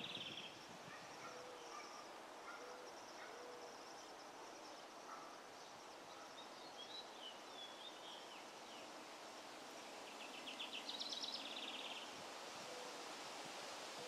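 Faint backyard ambience with songbirds calling: a short rapid trill at the very start, scattered high chirps, a few soft low notes, and a louder rapid trill lasting about a second and a half about ten and a half seconds in.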